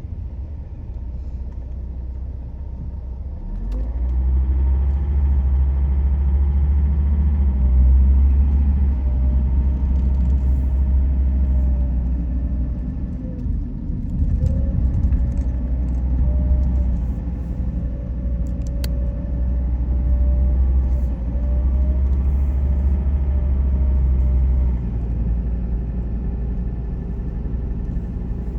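A car driving on the road: a steady low rumble of engine and tyres. It grows louder about three and a half seconds in, with the engine note rising and falling slightly, and eases off again near the end.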